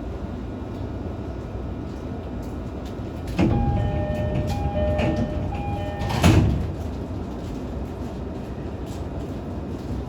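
E531-series commuter train's door-closing chime, a repeating two-tone chime starting about a third of the way in. The sliding doors then shut with a thud about six seconds in, over the low hum of the train standing at the platform.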